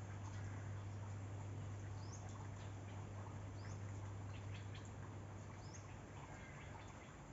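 A bird calling a short, high note over and over, about every two seconds, over an even background hiss. Beneath it is a steady low hum that fades out about six seconds in.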